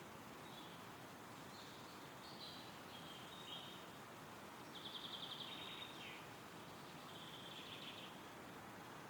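Faint, steady wind rustling through forest trees, with small birds singing short high phrases throughout; the loudest is a quick trill about five seconds in.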